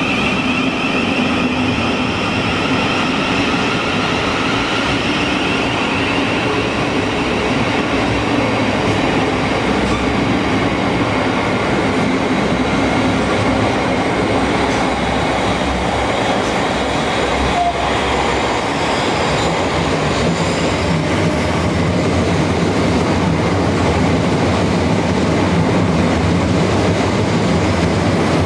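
Electric multiple-unit trains at a station platform. An electric train's motor whine fades over the first several seconds. Then a Southeastern Electrostar runs in along the near platform, its low running hum building over the last several seconds.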